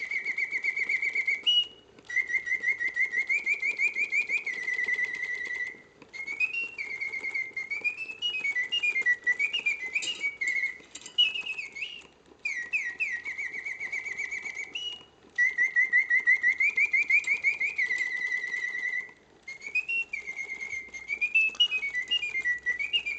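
Reuge double singing bird cage automaton playing continuously: its bellows-blown whistle produces mechanical bird song in phrases of rapid trills and warbling, rising and falling notes, with brief breaks between phrases. The mechanism and bellows are working as they should.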